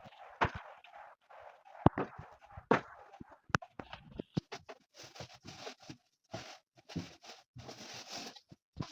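Household objects being handled during cleaning: irregular knocks and clicks, with rustling and wiping noise that gets denser in the second half.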